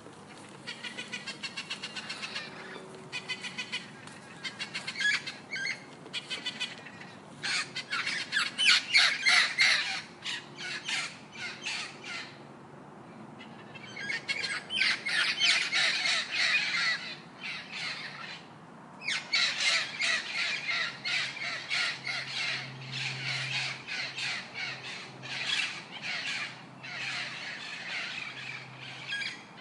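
Gouldian finches chattering in rapid, clicking bursts of calls, each lasting a second or a few seconds, with short pauses between them.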